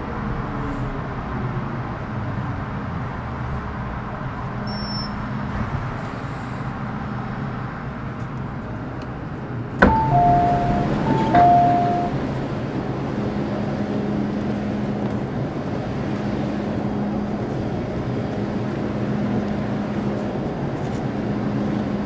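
Interior of a Metro Cammell M-Train EMU at standstill, its equipment giving a steady hum. About ten seconds in there is a sharp clack, then a two-note electronic chime, high then low, which sounds twice.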